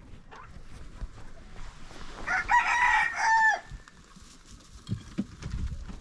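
A rooster crowing once, a call of about a second and a half in the middle, dropping in pitch at its end. A few low knocks follow near the end.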